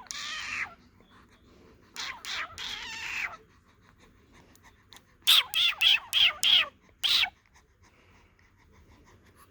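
A baby's high-pitched squeals and playful vocal noises: one drawn-out squeal at the start, another about two seconds in, then a run of five short, sharp squeals from about five seconds in.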